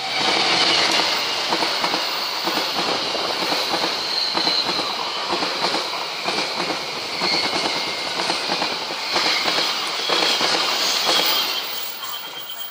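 Passenger train passing close at speed: a dense clatter and rattle of steel wheels on the rails with a high wheel squeal on top. It fades near the end as the last coach goes by.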